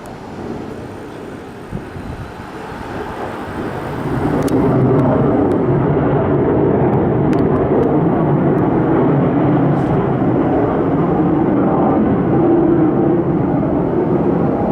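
US military aircraft from Kadena Air Base flying low overhead with a tremendous roar. The roar swells sharply about four seconds in and stays loud.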